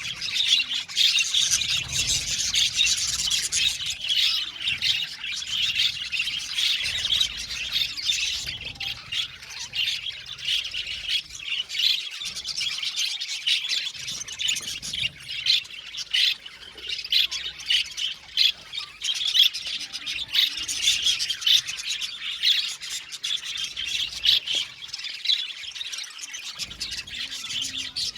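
A colony of budgerigars chirping and chattering together, with many overlapping calls and squawks going on without a break.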